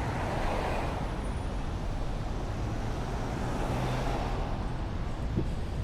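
Heavy city street traffic: a steady wash of passing vehicle engines and tyres, with a low engine hum swelling briefly about two thirds of the way through.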